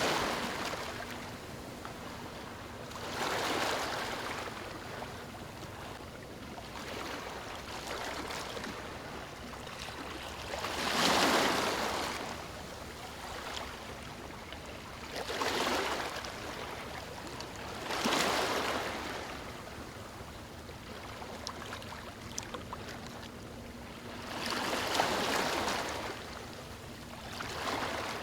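Small waves washing in on a beach, each swelling and falling away, about six times at uneven spacing of a few seconds.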